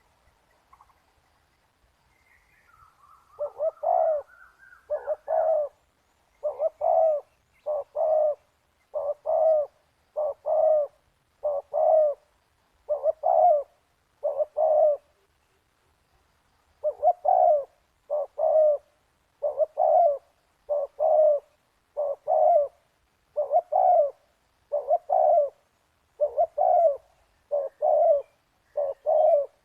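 Spotted dove cooing: a long run of short, low coos, about one a second, with a pause of a couple of seconds midway.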